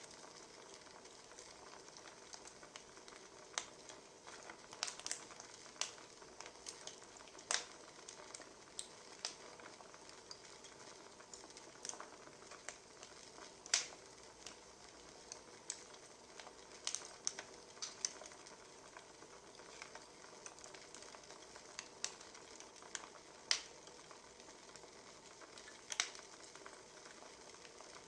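Wood fire crackling: a soft steady hiss with irregular sharp pops and snaps.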